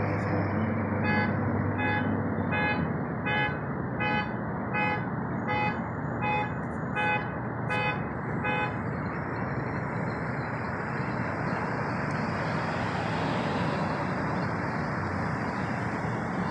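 A repeating electronic beep, about eleven beeps a little under a second apart, that stops about halfway through, over a steady rushing noise.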